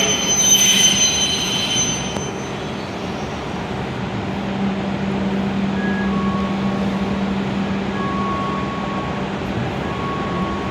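E7 series Shinkansen train running slowly along the platform as it pulls in: a steady rumble with a low hum, and faint thin tones in the second half.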